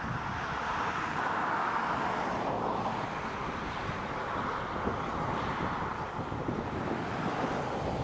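Steady outdoor noise: wind on the microphone over a low vehicle-like rumble.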